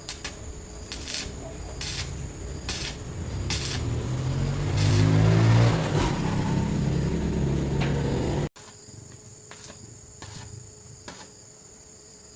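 An engine running, swelling to its loudest about five and a half seconds in, then cut off abruptly about eight and a half seconds in. Crickets chirp steadily throughout.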